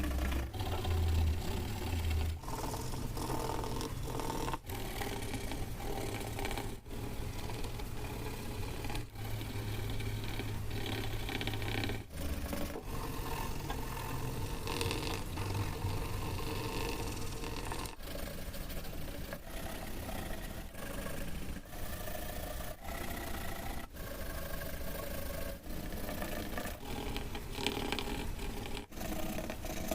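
Paper being handled close to the microphone: rustling, scraping and crinkling, broken by short drops every second or two.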